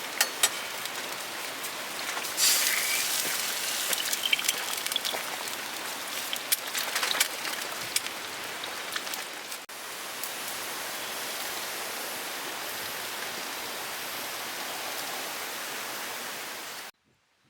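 Rain falling steadily, with many sharp drop hits pattering through it. About ten seconds in it cuts to a smoother, even rain sound, which stops abruptly near the end.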